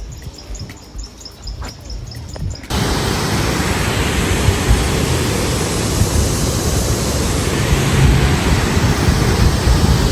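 A faint run of short high chirps, about three a second, then about two and a half seconds in a loud, steady rushing noise cuts in abruptly and continues.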